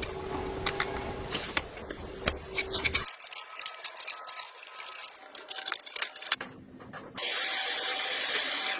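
A steady hum with a low rumble, then a run of sharp clicks and taps from handling small parts. About seven seconds in, a steady spray hiss starts and becomes the loudest sound.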